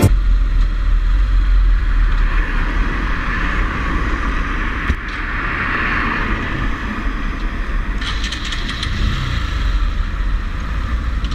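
A 125cc motorcycle on the move: engine and road noise over a heavy, steady low rumble, with a single sharp click about five seconds in.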